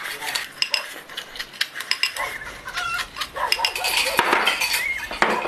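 Utensils clinking and clicking against bowls and dishes during a meal, many sharp taps in quick succession, with a chicken clucking now and then.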